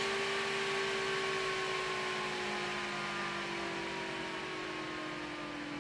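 Intel boxed CPU cooler fan spinning with a steady whirring hum whose pitch sinks slowly as the fan loses speed. It is a fan that will not start by itself at low voltage.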